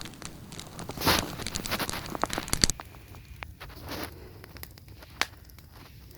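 Campfire of dry willow wood burning with crackling and popping; the crackles come thick for the first three seconds or so, then thin out to occasional pops.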